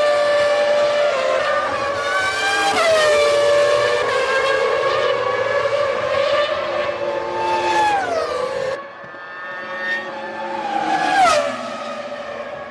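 1999 Formula One cars' 3-litre V10 engines running at high revs, several at once, with the pitch dropping in sharp falling steps as they downshift a few times. The sound changes abruptly about nine seconds in, and near the end one car passes close with a falling downshift, the loudest moment.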